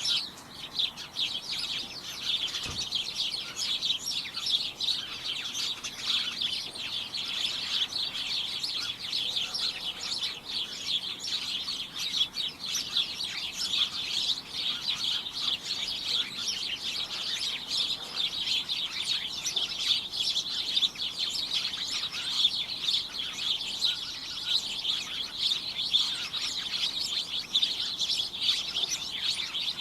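Many small birds chirping at once, a dense, continuous chatter of overlapping high-pitched chirps.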